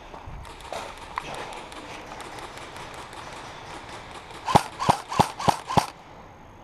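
Five sharp shots about a third of a second apart, an airsoft gun fired in semi-auto, coming near the end over a steady hiss.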